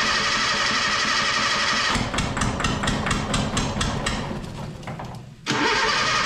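A 1977 Datsun B210's four-cylinder engine turned over by its whining starter motor with no carburetor fitted, catching about two seconds in and firing raggedly for a few seconds, missing hard. The steady starter whine returns near the end.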